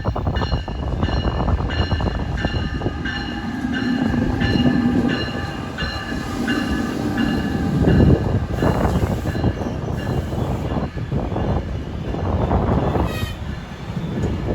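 An NJ Transit ALP-46A electric locomotive and its train rolling into a station with a steady rumble and clatter. A bell rings about twice a second through the first half, then fades.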